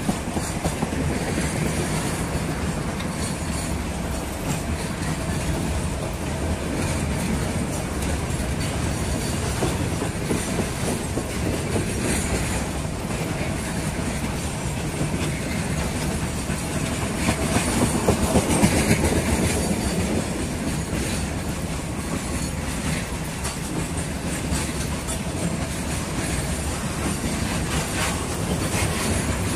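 Loaded freight wagons of a limestone and clinker train rolling past close by, their steel wheels clattering on the rails, a little louder about two-thirds of the way through.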